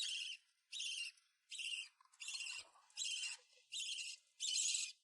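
Hand-reared parrot chick giving repeated rasping begging calls, about one every three-quarters of a second, while it waits to be fed.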